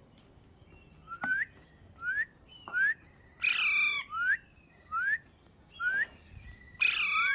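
Alexandrine parakeet calling: a series of short, rising whistled calls about one every 0.7 seconds, with two louder, harsher calls in the middle and near the end.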